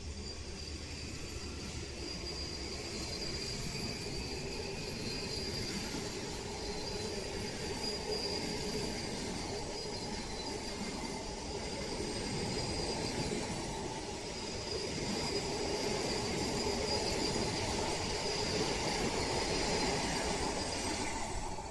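Passenger train running past on the track, its coaches rolling with a steady rumble and a thin, steady high-pitched whine above it. The sound slowly grows louder and then cuts off near the end.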